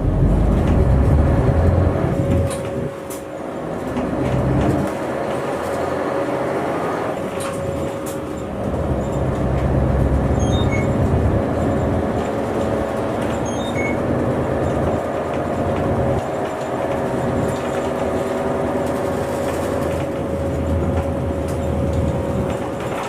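Inside a city bus pulling away and driving: the engine running and rising and falling in level, with road rumble and a steady whine underneath.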